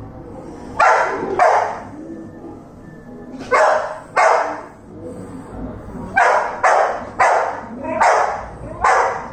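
A dog barking, nine short barks, the first few coming in pairs and the rest in a quicker run near the end.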